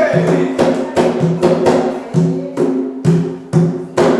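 Hand drums, likely the atabaques of an Umbanda ritual, beat a steady rhythm of about three strokes a second as a ritual song closes, with one last stroke near the end ringing away.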